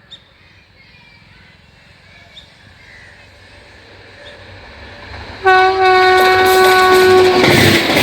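Express train approaching at high speed, its rumble faintly growing, then the locomotive horn blaring suddenly about five and a half seconds in over the loud rush of the passing train. The horn's pitch drops near the end as the locomotive goes by.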